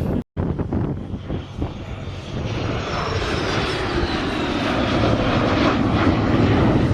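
Airplane flying past, its engine noise growing steadily louder, with a high whine that falls in pitch as it passes.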